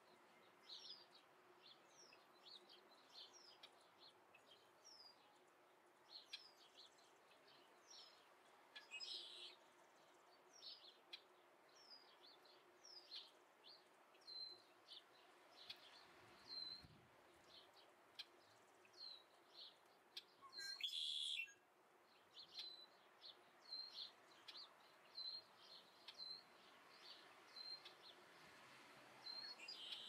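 Faint, repeated short high chirps from a bird, each sliding down in pitch, coming every half second or so. About two-thirds of the way through there is one louder, noisier sound lasting about a second.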